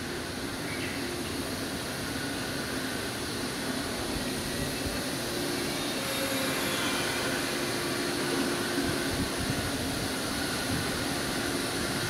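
Shinano Railway 115-series electric train pulling slowly into a station platform and slowing to a stop. Its wheels run on the rails and the sound grows gradually louder as it approaches.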